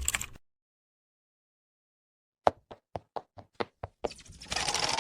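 A quick run of about eight sharp clicks or knocks after about two seconds of dead silence, followed by a steady hiss-like noise that swells near the end.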